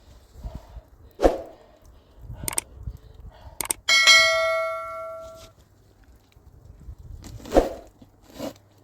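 A few sharp knocks, and about four seconds in a metal object is struck and rings clearly, fading out over about a second and a half.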